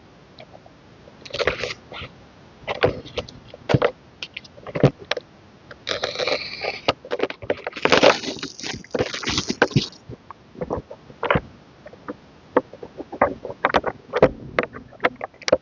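Hands unwrapping and handling an album package. There are scattered taps and clicks, with longer rustling of the wrapping about six seconds in and again from eight to ten seconds in.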